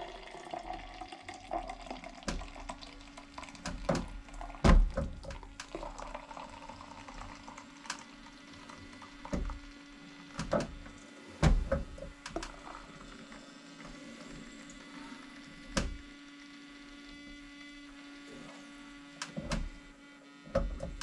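Beer pouring from a hand-pulled beer engine into a glass, under a steady low hum. A series of sharp knocks and clunks comes every second or few, the loudest about five seconds in and about eleven seconds in.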